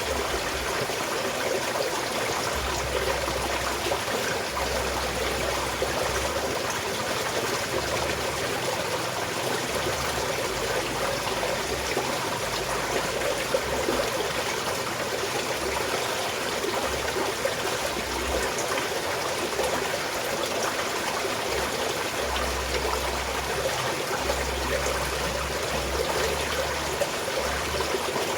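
Small mountain stream flowing and trickling steadily.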